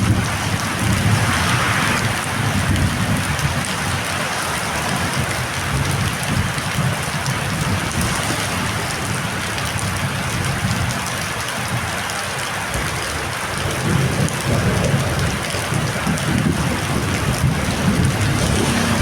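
Heavy rain pouring steadily in a storm, with a continuous low rumble underneath.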